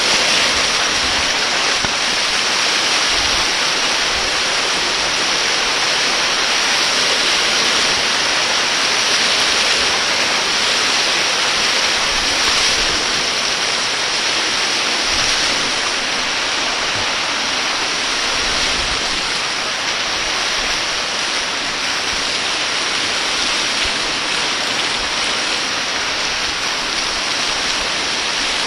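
Waterfall: a steady, loud rush of falling water, with no change for the whole stretch.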